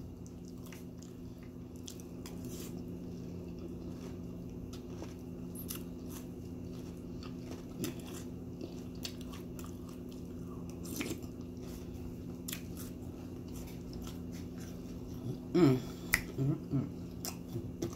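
Close-up chewing of a mouthful of Honey Nut Cheerios in milk, with scattered light clicks of a metal spoon in the cereal bowl, over a steady low hum. A short voiced murmur comes about two seconds before the end.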